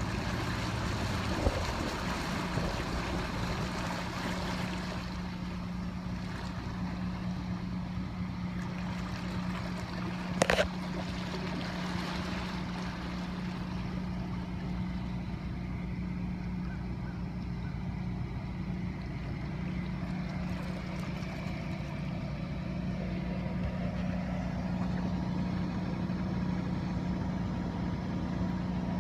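An engine running steadily as a low hum under a wash of wind and water noise, with a brief sharp sound about ten seconds in.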